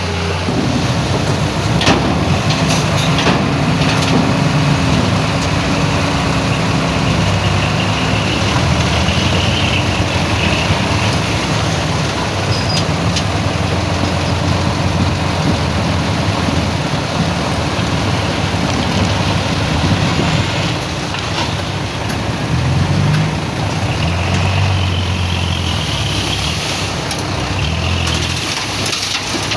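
Heavy diesel earthmoving machinery running steadily, its engine note shifting with load, with a faint high squeal twice.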